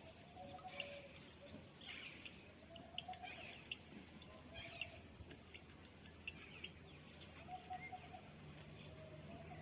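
Faint bird calls: short, repeated mid-pitched notes every second or two, with scattered higher chirps.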